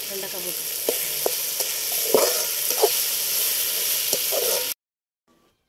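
Chopped vegetables sizzling as they fry in a large aluminium pot, with a long slotted metal ladle scraping and clinking against the pot as they are stirred. The sizzle cuts off suddenly near the end.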